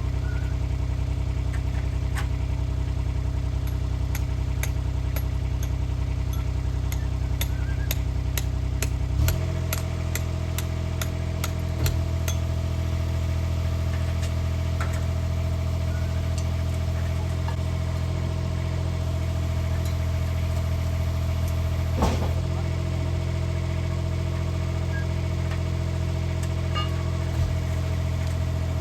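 An engine running steadily, its note changing about nine seconds in. Light ticking over the first few seconds, and a few single knocks.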